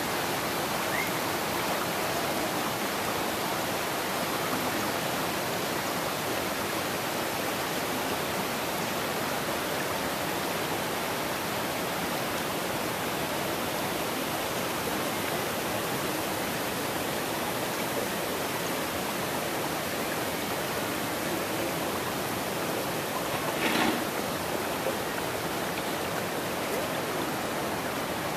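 River water running over rocks: a steady rushing. A brief louder sound stands out about three-quarters of the way through.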